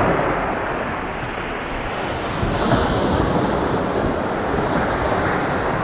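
Sea waves breaking and washing up a beach: a steady rush of surf with a low rumble beneath it.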